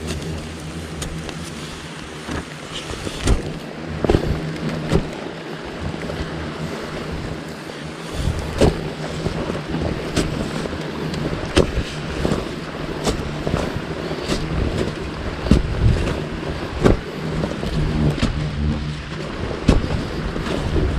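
Digging into earth with a blade: irregular knocks and scrapes of the blade striking soil, over a steady low hum.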